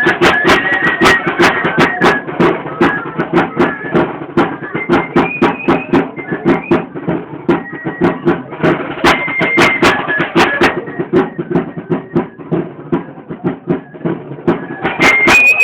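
Traditional torito dance music: a high-pitched flute playing a repeating melody over rapid, steady drumbeats.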